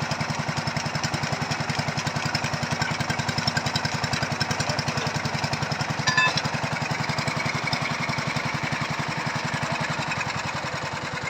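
Small engine of a foundation-boring auger running steadily, with a short metallic clink about six seconds in.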